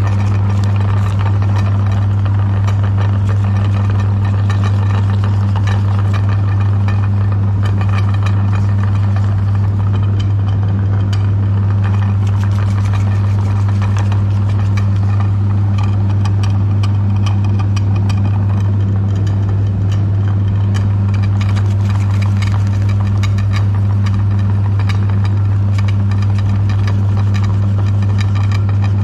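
Electric meat grinder running steadily, its motor giving a loud, even hum with a scatter of small clicks over it.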